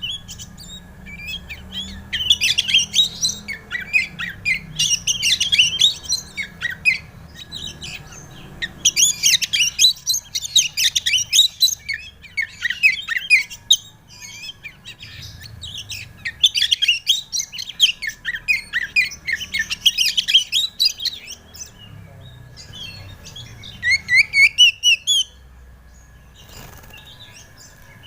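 Oriental magpie-robin (kacer) singing a fast, busy song of varied chirps and trills, delivered in phrases of a few seconds with short pauses between them.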